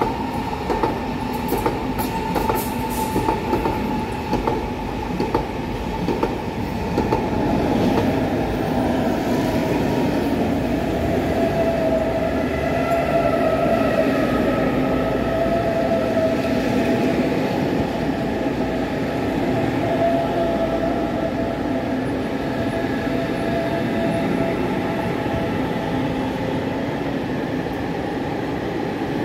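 Train running past close by: a run of wheel clicks over the rail joints in the first few seconds, then a steady rumble with a held whine.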